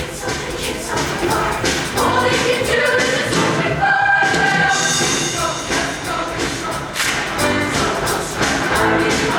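High school show choir singing in chorus over instrumental accompaniment with a steady beat.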